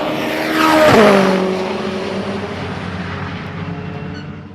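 Mitsubishi Lancer Evolution IX time-attack car passing at speed: its engine note drops sharply in pitch as it goes by about a second in, then fades away.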